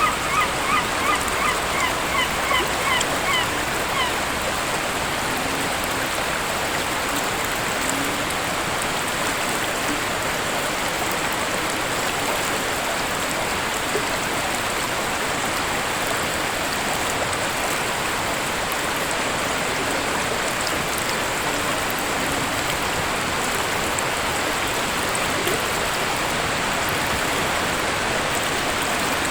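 Waterfall rushing steadily. For the first four seconds a bird calls over it in a quick series of short, repeated notes.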